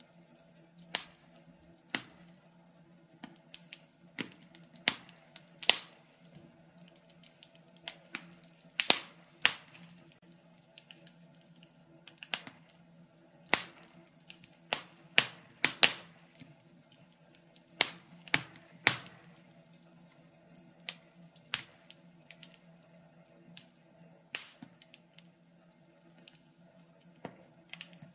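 Wood fire crackling in a fireplace: irregular sharp pops and snaps, a few to several a second, some loud, over a faint steady low hum.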